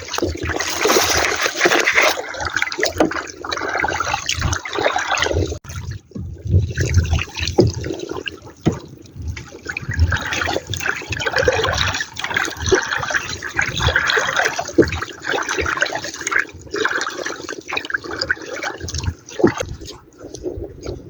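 Water splashing and sloshing unevenly, with irregular low thumps.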